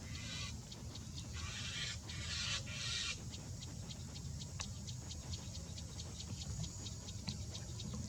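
Three harsh, raspy bird calls in the first three seconds, then many small clicks, over a steady low hum.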